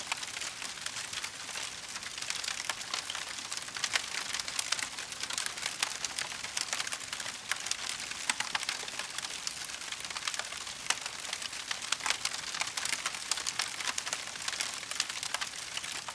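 Wood fire crackling, a dense, continuous run of small sharp pops over a soft hiss.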